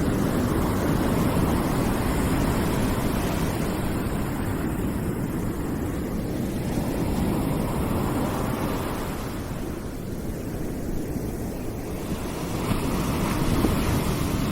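Continuous rushing noise of a white-noise ambience track, deepest in the low range, swelling and easing slowly, with a gentle dip about ten seconds in.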